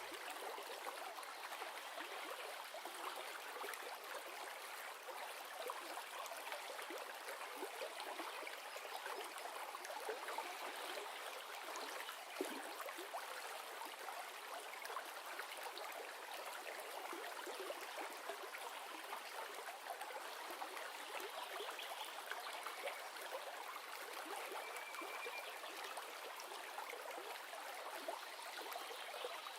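River water flowing steadily, an even rushing and trickling.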